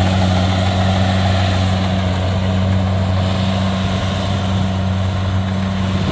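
Kubota DC70 rice combine harvester's diesel engine running steadily, an even drone with a strong low hum.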